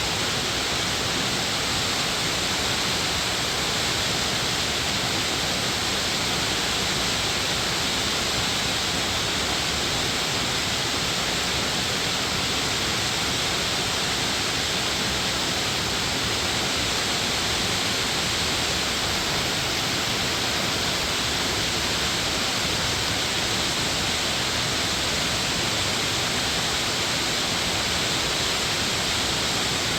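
Rushing water of a mountain valley stream, a steady unbroken hiss.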